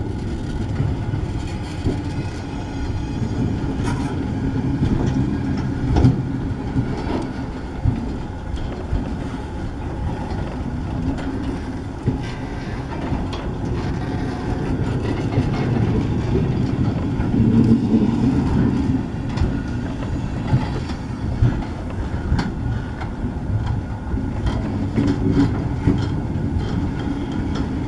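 Freight cars loaded with pulpwood logs rolling past: a steady rumble of steel wheels on rail with clickety-clack over the rail joints and occasional knocks.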